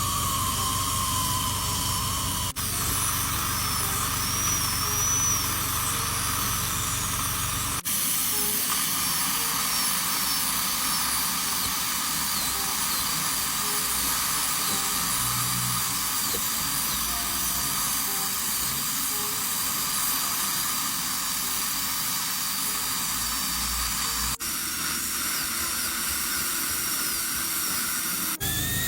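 Dental drill whining over a steady hiss, its high pitch wavering, with a few abrupt breaks.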